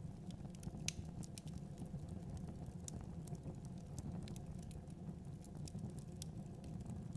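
Wood fire burning in a fireplace, crackling with scattered sharp pops over a steady low rumble of flames.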